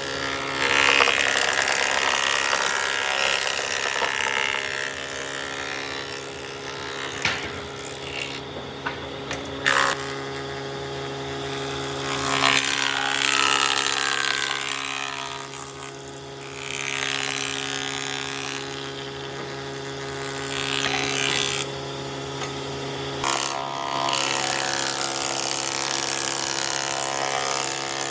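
Woodworking power tool running steadily under a motor hum, with a harsher cutting or grinding noise that swells and fades every few seconds as it works the wood, and a few sharp knocks.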